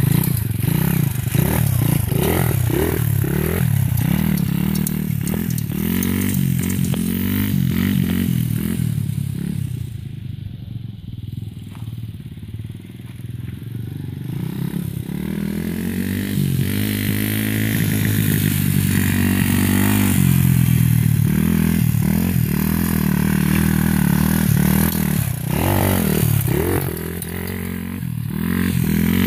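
125 cc dirt bike engine running and revving up and down repeatedly. It drops back and quietens for a few seconds around the middle, then climbs again in long rising revs.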